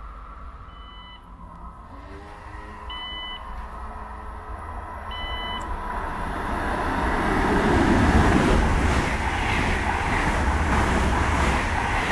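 A Siemens Desiro HC electric multiple unit on the RE 6 approaches and runs through the station without stopping. Its wheel and rail rush swells from about halfway in and is loudest near the end. Earlier there are three short electronic beeps, about two seconds apart.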